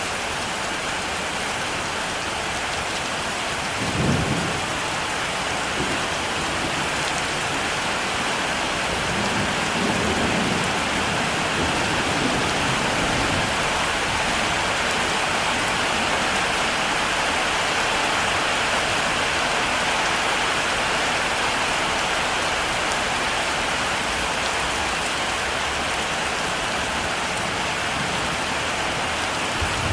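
Heavy rain falling steadily, with thunder: a short low rumble about four seconds in, a longer rolling rumble from about nine to thirteen seconds in, and a louder clap breaking right at the end.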